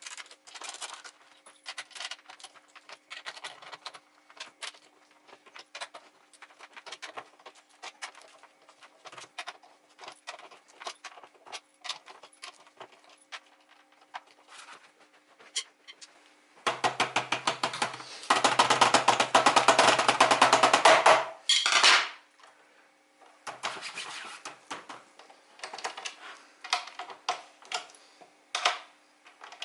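Clicks, taps and rattles of plastic parts and screws being handled while an Alesis electronic drum pad is put back together. About two-thirds of the way in comes a loud buzzing run lasting about four seconds, in two parts, then the small clicks resume.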